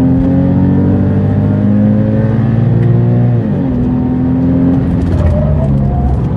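Porsche flat-six engine heard from inside the cabin, pulling hard under acceleration with its pitch slowly climbing. The pitch drops sharply about three and a half seconds in, dips again a little after five seconds, then climbs once more near the end.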